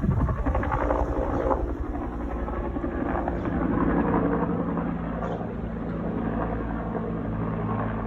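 Aircraft engine running with a steady drone.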